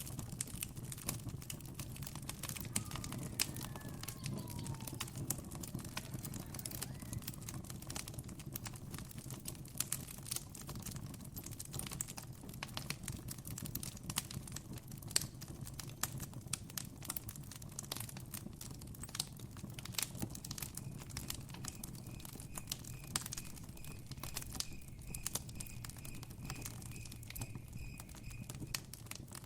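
Campfire crackling, with irregular sharp pops over a steady low rumble. In the second half a faint high chirp repeats about twice a second.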